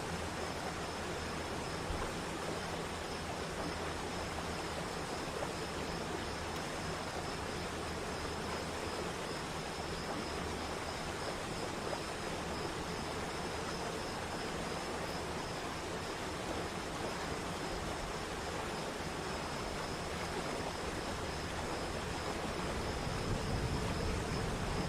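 Waterfall water rushing steadily, an even roar of noise, with a thin steady high tone running above it. The low rumble swells slightly near the end.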